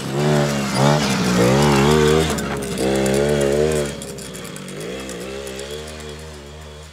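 Small 50cc two-stroke quad bike engine revving, its pitch rising and falling as the throttle is worked. Louder for the first four seconds, then running at lower, wavering revs.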